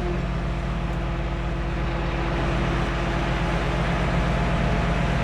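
Tow truck engine running steadily under a recovery pull, with a thin whine held for about the first three seconds.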